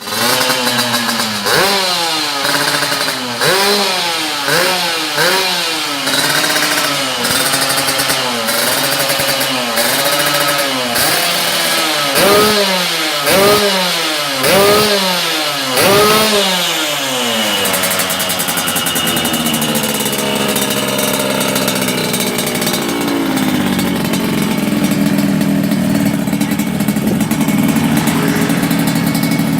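Yamaha RX-King's single-cylinder two-stroke engine blipped through a racing expansion-chamber exhaust (an 'udang lobster' kolong pipe), with quick throttle blips about one a second that each rise and fall in pitch. A little past halfway the revs are held at a steady raised speed, stepping up once more and holding.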